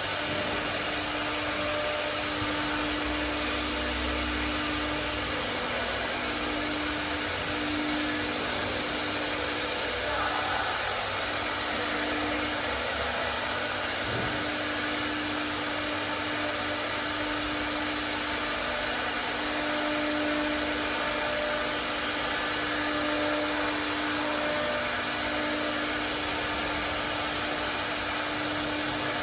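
Four-axis CNC router running: a steady high-speed spindle whine over a dense hiss, with a hum that swells and fades every second or two. A single brief knock about halfway through.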